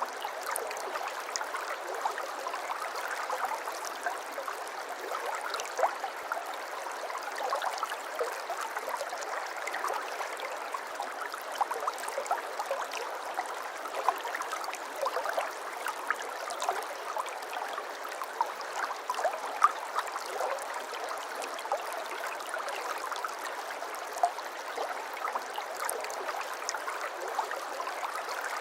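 Water flowing and babbling steadily, with many small gurgles and splashes dotted throughout.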